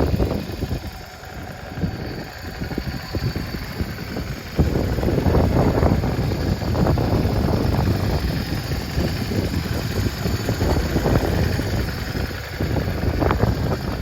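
Yamaha Drag Star 400's fuel-injected air-cooled V-twin running, with a low, uneven beat that gets suddenly louder about four and a half seconds in.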